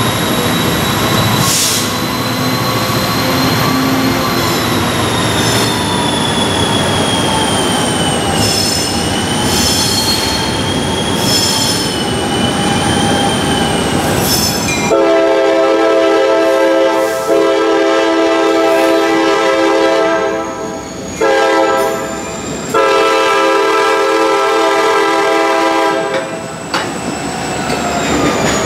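Slow freight train approaching behind a diesel locomotive, its wheels squealing with high, wavering tones. About halfway in the locomotive's multi-chime horn blows the grade-crossing signal: long, long, short, long. Near the end the locomotive passes close by.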